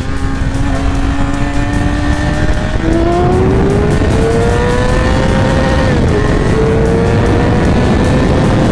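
Motorcycle engine on the move, its pitch climbing through the first half and then holding steady with a brief dip about six seconds in, over heavy wind rush on the microphone.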